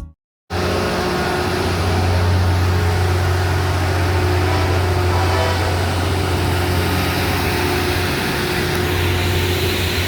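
Steady vehicle running noise: a constant low engine hum under an even rumble. It starts abruptly about half a second in and holds level throughout.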